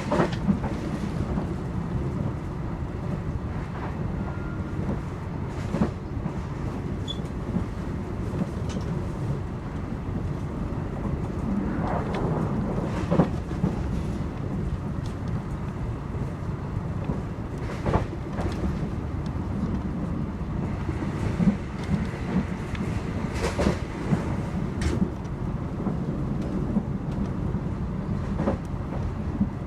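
Argo Bromo Anggrek passenger train running, heard from on board: a steady low rumble from the wheels and coach, with occasional sharp knocks from the track.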